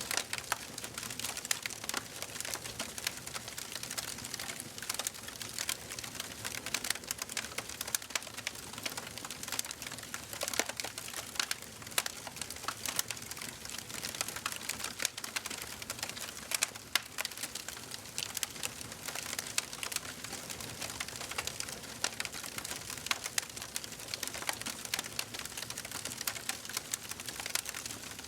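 Wood fire burning in a fireplace, crackling and popping constantly with many small irregular snaps over a soft hiss of flame.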